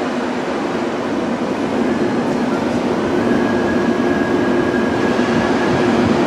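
KTX high-speed train pulling slowly into a station platform: a steady rumble and hum that grows a little louder as it draws near, with a faint thin high whine from about three seconds in.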